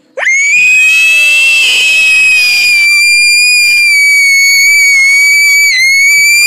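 A woman's very high vocal scream. It swoops up quickly at the start, then holds as one steady, high tone for about six seconds, with a brief dip near the end.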